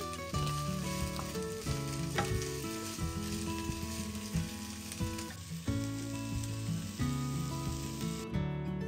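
Vegetables sizzling in olive oil in a frying pan, stirred now and then; the sizzling cuts off near the end. Instrumental background music plays throughout.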